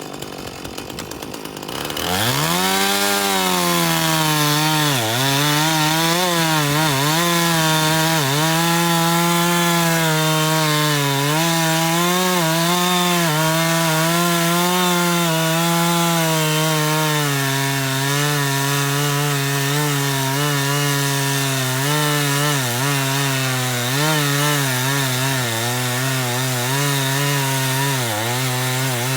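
Husqvarna Rancher two-stroke chainsaw revving up sharply about two seconds in, then running at full throttle while cutting a log, its pitch dipping again and again as the chain bites into the wood. The chain is dull and needs sharpening, by the owner's account.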